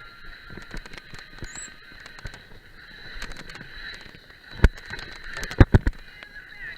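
Mountain bike rattling over a rough trail, with a steady high-pitched tone throughout and a few sharp knocks from the bike jolting over bumps about five seconds in.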